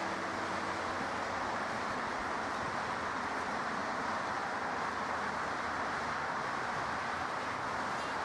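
Jet aircraft engines running, heard as a steady, even rushing noise; a few faint humming tones fade out about a second in.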